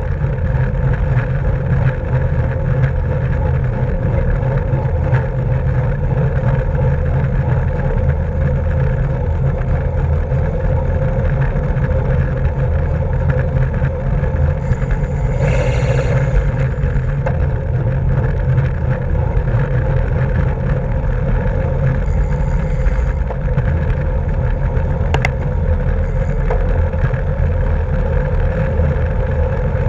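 Steady wind rushing over the microphone of a camera carried on a racing bicycle at speed. A brief higher-pitched sound comes about halfway through, and a couple of sharp clicks come in the second half.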